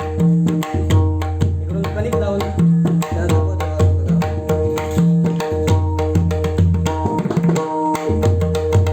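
Pakhawaj played in a fast demonstration pattern: sharp ringing strokes on the right head mixed with deep, sustained bass strokes on the left head, which recur about once a second. The drum is tuned to kali 2 (C sharp).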